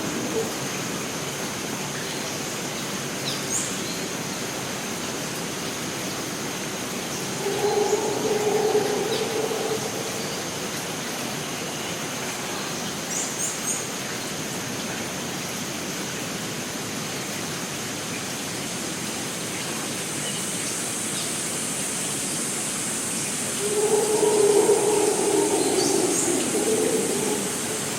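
Costa Rican rainforest ambience: a steady hiss of water under a constant high insect drone, with a second, higher insect buzz joining about two-thirds of the way through. A few short bird chirps come and go, and twice a low animal call swells up for a couple of seconds.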